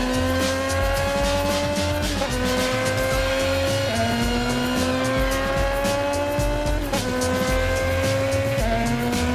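Motorcycle engine accelerating hard, its pitch climbing steadily and dropping sharply at each of four gear changes, with film score underneath.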